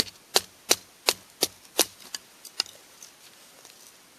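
Split firewood being chopped into thin kindling sticks: six sharp wooden strikes at a quick, even pace, about three a second, then two lighter knocks and a few faint taps.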